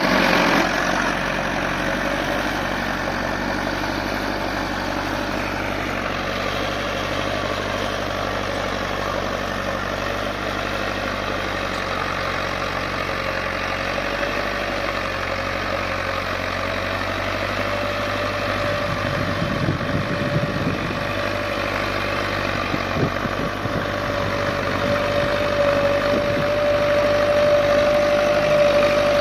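Mahindra Arjun Nova 605 tractor's diesel engine running steadily, with a thin high whine over the engine note that grows stronger in the second half.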